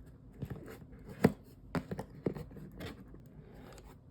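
Packaging being handled and unpacked: a series of short, sharp clicks and knocks with light scraping, the loudest about a second in.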